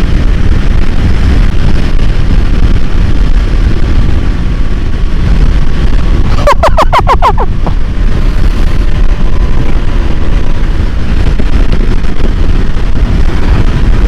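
A Kawasaki Ninja 500's parallel-twin engine running at speed under steady wind and road rumble, heard on the rider's microphone. About six and a half seconds in, a quick run of about eight short chirps cuts through for a second.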